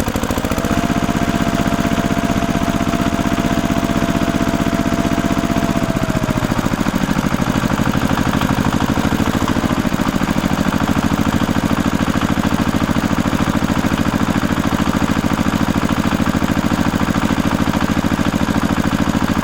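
A small motor running steadily with a fast, even pulse; a humming tone above it drops in pitch and fades about six seconds in.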